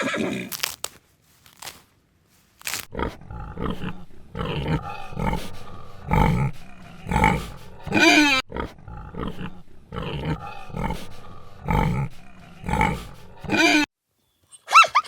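A large animal giving a long, regular series of loud, harsh calls, about one a second, starting a few seconds in after a short silence and stopping just before the end.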